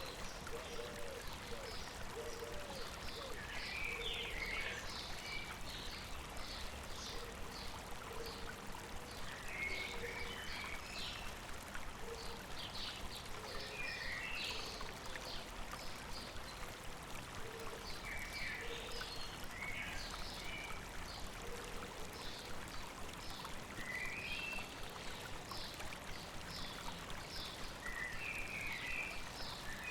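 Steady rush of a flowing river, with birds singing short high phrases every few seconds over it and a lower repeated call, mostly in the first half.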